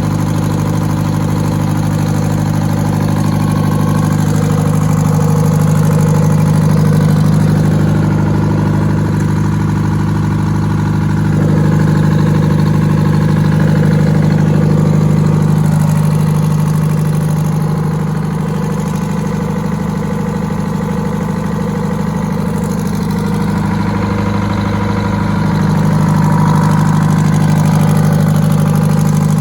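Detroit Diesel 4-71 two-stroke, supercharged inline four-cylinder diesel running steadily on a test stand, with its loudness swelling a little a few times.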